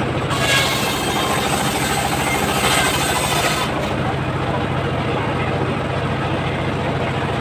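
Homemade circular sawmill running steadily while sawing coconut-palm wood. A brighter, hissier sound rises twice, about half a second in and again around three seconds in, as the blade bites into the wood.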